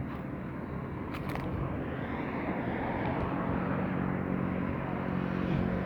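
A steady engine hum of a passing vehicle, growing a little louder over the first few seconds, with a couple of faint clicks about a second in.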